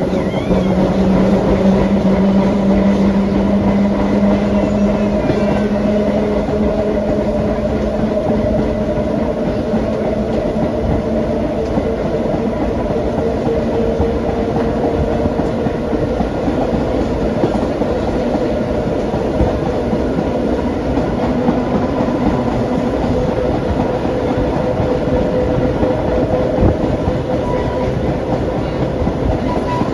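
Vintage BU elevated gate cars running along the track, with wheel-and-rail noise and a steady traction-motor hum that rises slightly in pitch over the first several seconds.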